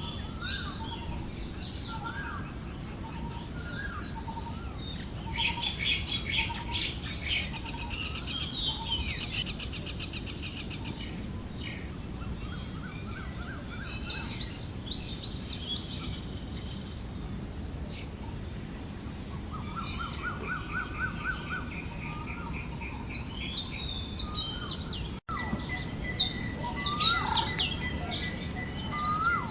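A chorus of forest birds chirping and trilling, with short repeated calls and rapid trills, over a steady high insect-like buzz and a low breeze-like hiss. The sound breaks off for an instant about 25 seconds in, then resumes with busier chirping.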